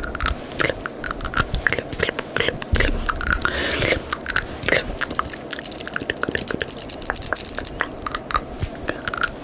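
Close-miked ASMR mouth sounds: a rapid, uneven run of wet tongue and lip clicks, made to imitate invisible clips snapping. A short breathy hiss comes about three and a half seconds in.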